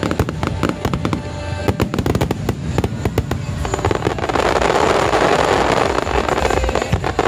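Aerial firework shells of a starmine barrage bursting in quick succession over music. From about four seconds in comes a dense run of crackling.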